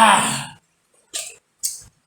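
A person's short vocal sound, falling in pitch, followed by two brief breaths.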